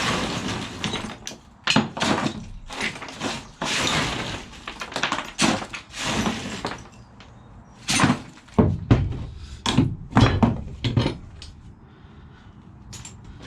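Loose pieces of scrap brass and copper clattering and clanking together as they are handled. The first several seconds are dense clatter, then a run of separate heavy knocks about eight to eleven seconds in.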